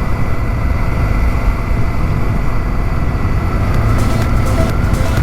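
Honda Africa Twin's parallel-twin engine running steadily while the bike is ridden, with a heavy low rumble of engine and wind noise. Faint music notes come in near the end.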